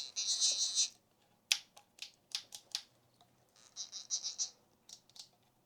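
Handling of a CNC MPG handwheel pendant: two short stretches of plastic rustling and a handful of light, irregularly spaced clicks.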